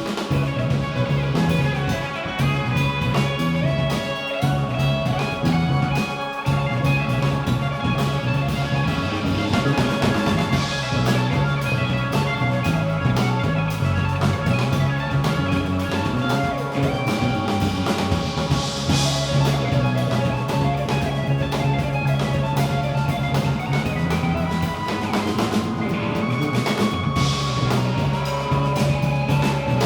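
Live band playing an instrumental passage, with drum kit and guitar; cymbal washes swell up a few times.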